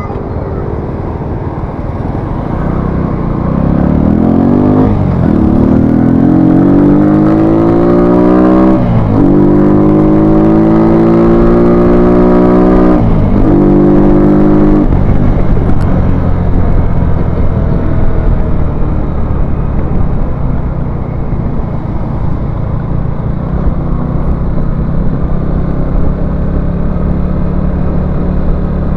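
Small motorcycle engine, ridden and heard from the saddle, accelerating through the gears. Its pitch rises in each gear and drops at the upshifts about 5, 9 and 13 seconds in, then settles to a steadier cruise in fourth gear.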